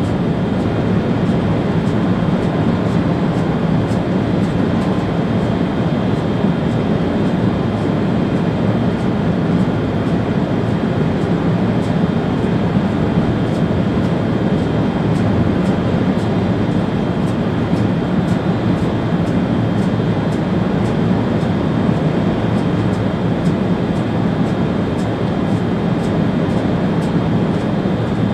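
Steady running noise inside the cab of an ÖBB Railjet train at high speed: an even low rumble with a faint high tone over it.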